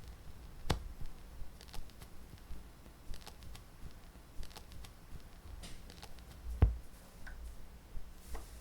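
Scattered light clicks and ticks, with two louder dull knocks, one about a second in and one near the end.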